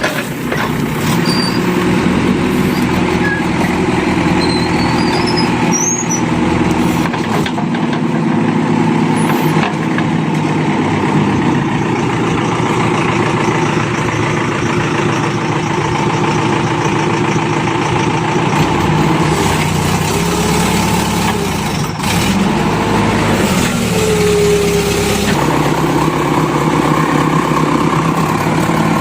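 Diesel engine of a JCB 3DX backhoe loader running as it works loading mud, alongside a tractor engine. The note holds steady, then shifts and wavers in pitch about two-thirds of the way in as the engine comes under load.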